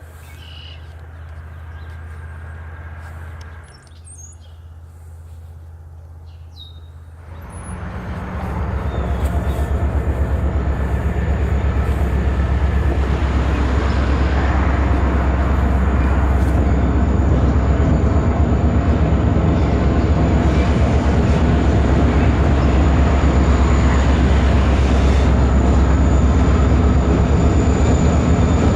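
Diesel freight locomotive arriving, its engine rumble with a fast even throb rising sharply about seven seconds in, then staying loud and steady, with a thin high whine on top. A few birds chirp before it comes up.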